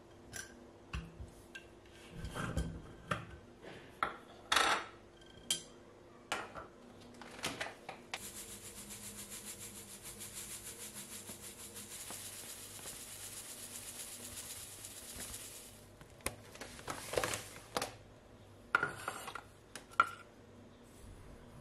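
Household handling sounds: a few light knocks and clinks, then about eight seconds of steady, evenly repeated rubbing or scraping strokes, followed by more sharp knocks near the end.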